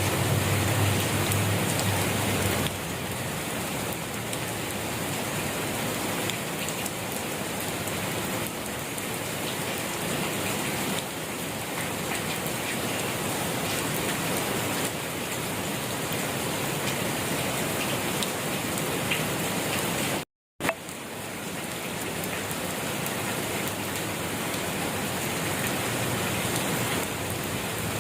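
Steady rain falling, an even hiss of many drops on a surface. About two-thirds through it cuts out to silence for a fraction of a second and comes back with a click.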